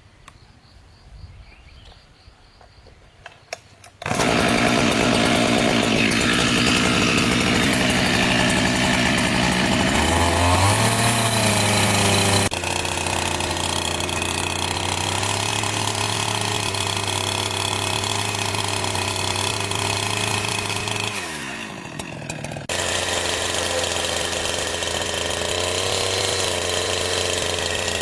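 A chainsaw starts up suddenly after a few quiet seconds of small clicks and runs steadily. It revs up around ten seconds in, and dips and falls in pitch for about a second a little past twenty seconds before running on again.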